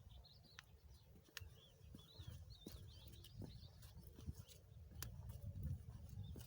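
Faint songbird warbling: a string of quick, wavering high notes through the middle. Under it there is a low rumble and a few sharp clicks.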